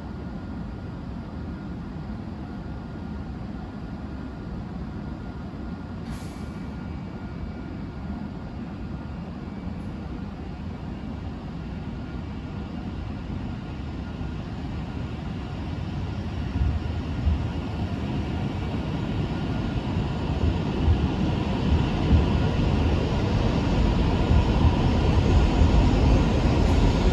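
Joetsu Shinkansen train approaching the station, its rumbling running noise growing steadily louder through the second half.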